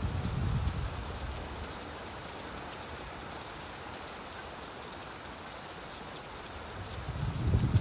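Steady rainfall with a rumble of thunder dying away in the first second. A second, louder roll of thunder builds near the end.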